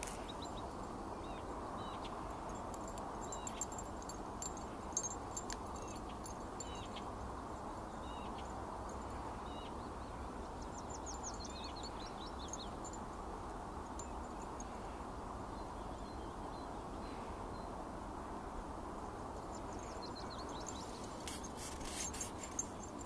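Small birds chirping now and then over a steady low rushing background, with a few short clicks near the end.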